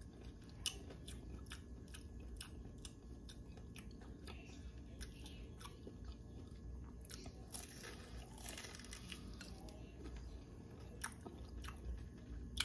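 A person biting and chewing a fried pork rib close to the microphone: quiet crunching of the fried crust and wet mouth sounds, with many small sharp clicks scattered throughout.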